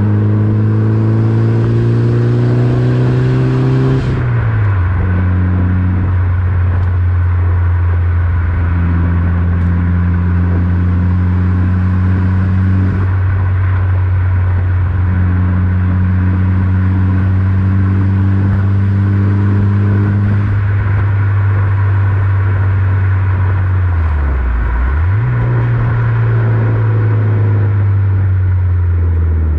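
Mitsubishi Lancer Evolution VIII's turbocharged 4G63 inline-four running through an Invidia aftermarket exhaust at a steady drive. The engine note climbs slightly over the first few seconds, drops about four seconds in, holds even for a long stretch, then dips briefly and comes back up near the end.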